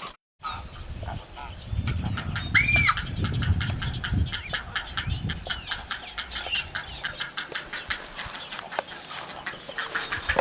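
Nesting colony of herons and egrets with their chicks: a dense chorus of rapid clicking and chattering calls, with one loud harsh call about two and a half seconds in.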